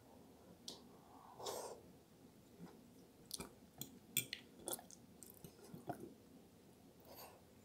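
Quiet close-up chewing and lip-smacking on soft, saucy eggplant parmigiana, with a few sharp clicks around the middle as a metal fork digs into the glass baking dish.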